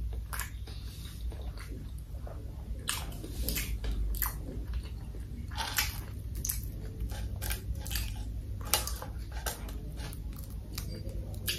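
Close-miked chewing and biting of crispy fried food, with irregular crunches, a few of them louder.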